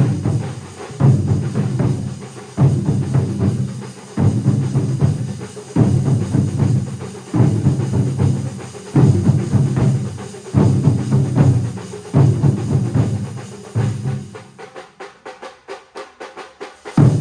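A massed drum ensemble of more than a hundred drummers playing in unison. Heavy accented beats come about every second and a half over continuous rapid strokes. Near the end the playing drops to softer, quick, even strokes before a loud accent comes back.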